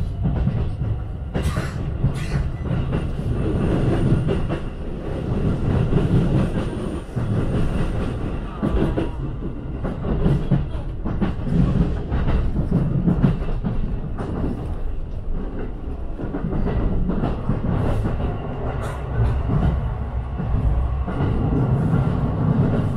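Running noise of a JR Tokaido Line commuter train heard from inside the carriage: a continuous low rumble with wheels clicking over the rails.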